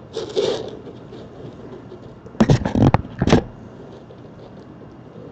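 Short scraping, rustling noises: a brief one at the start, then three louder ones close together about two and a half seconds in.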